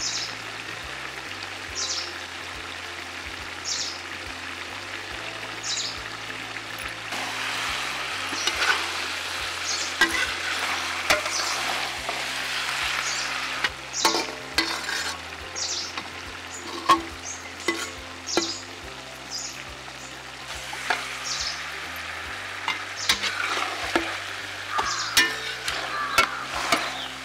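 Cauliflower and peppers sizzling in a large aluminium kadai as a metal spatula stirs them, scraping across the pan and clinking against its sides. The scrapes come about every two seconds at first, and the clinks grow busier in the second half.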